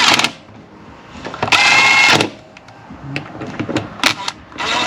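Ratchet wrenches clicking in quick runs while bolts are run down, with scattered sharp tool clicks between the runs.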